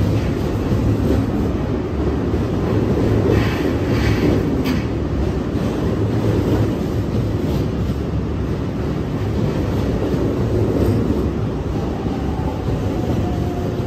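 Kintetsu electric train running along the platform: a steady rumble of wheels on rail, with brief high squeals about three to five seconds in and a faint whine near the end.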